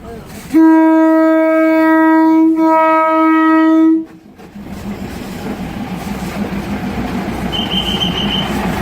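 Train horn sounding one long blast of about three and a half seconds, wavering briefly in the middle. The rumble of the train rolling along the track follows and grows louder, with a brief high-pitched tone near the end.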